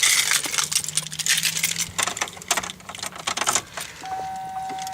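A key ring jangling and clicking as the keys are handled. About four seconds in, the 2005 Chevy Trailblazer's warning chime starts, a steady electronic tone.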